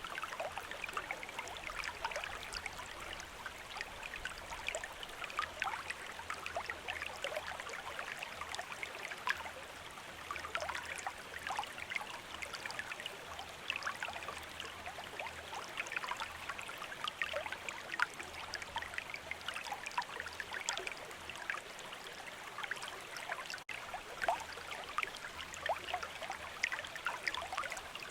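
A river or stream flowing: a steady rush of running water with constant small gurgles and trickles.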